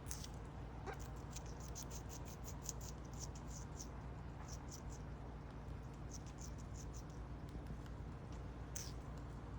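Australian king parrot biting and chewing succulent leaves: faint, crisp crunching clicks in irregular runs.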